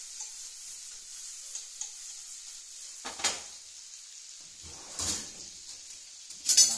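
Chicken frying in oil in a pan, a steady sizzle, with three brief louder sounds about three, five and six and a half seconds in, the last the loudest.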